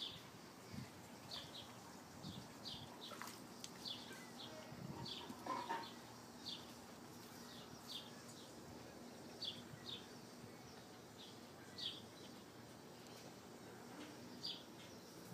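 A small bird chirping over and over, short falling chirps about once or twice a second, faint over a steady outdoor background. A short rustle comes a little over five seconds in.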